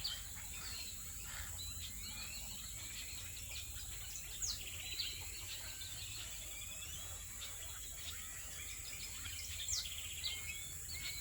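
A dense mixed chorus from trees full of roosting birds (grackles, melodic blackbirds, egrets and a southern house wren), many chirps, whistles and short rattles overlapping continuously over a steady high hiss.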